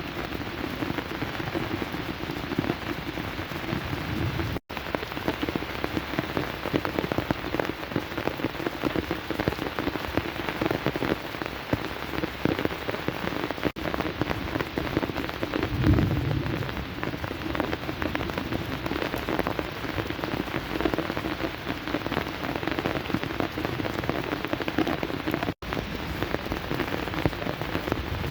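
Heavy rain pouring down steadily onto surfaces, with a brief low rumble about halfway through.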